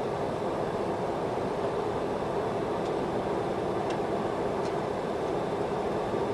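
Steady noise inside the cockpit of a Boeing 737-200 in descent: an even rush of air and engine noise with a constant low hum, and a few faint ticks about halfway through.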